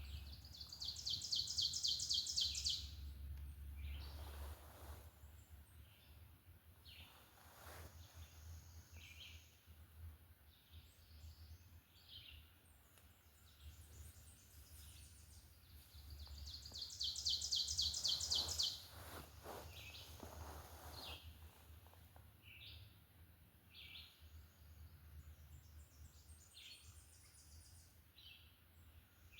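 Songbirds singing in the woods: a fast, high trill of about two seconds comes twice, near the start and again about halfway, with scattered short chirps in between.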